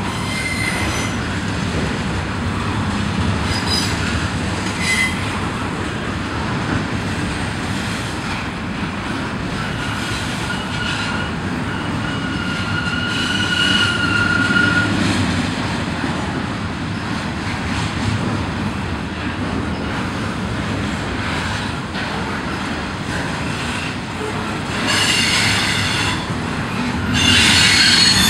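Canadian Pacific double-stack container train rolling past: a steady rumble of steel wheels on rail, with thin metallic squeals in the middle and louder, higher wheel squeals twice near the end.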